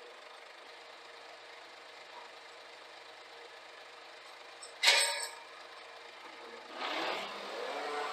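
Scania G410 truck running quietly, then a sharp hiss of air about five seconds in, typical of the air brake being released, followed near the end by the engine rising in pitch as it revs up.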